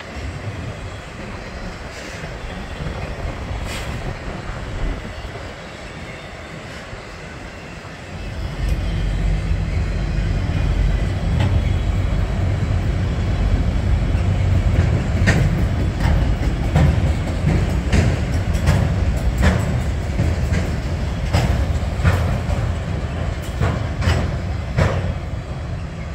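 Loaded autorack freight cars rolling past on the rails with a steady low rumble. The rumble grows louder about a third of the way in. Frequent sharp clicks from the wheels come through in the second half.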